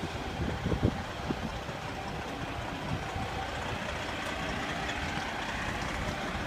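Steady vehicle rumble, with a few low thumps in the first second or so.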